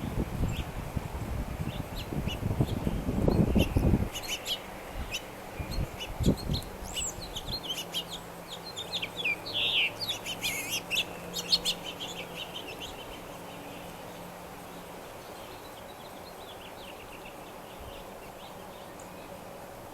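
Wild birds calling with short high chirps, in a flurry from about four seconds in that thins out after about thirteen seconds. A loud low rumbling fills the first four seconds.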